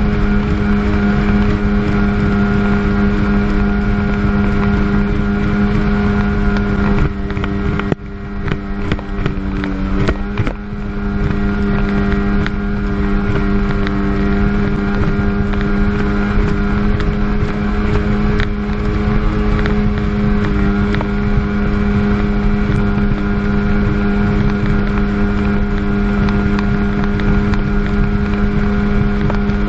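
1997 Sea-Doo GTS jet ski's two-stroke twin 720 engine running hard at speed with a steady note. About a quarter of the way in, the note dips briefly amid several knocks, then picks back up.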